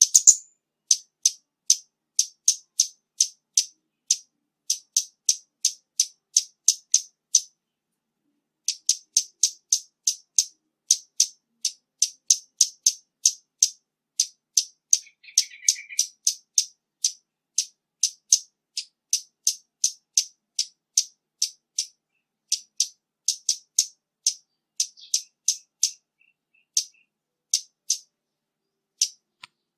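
Scarlet-backed flowerpecker calling: a steady series of short, sharp, high-pitched ticks, about two or three a second, with a short break about eight seconds in.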